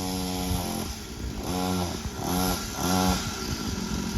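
Small 50cc dirt bike engine running, held steady at first, then revved in several short bursts as the throttle is opened and let off.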